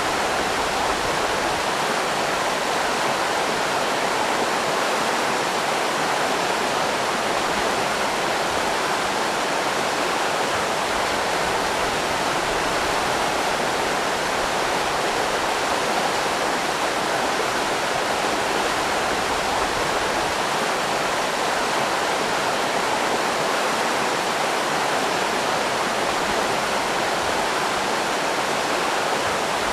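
River rapids rushing steadily over rocks, an even, continuous roar of white water.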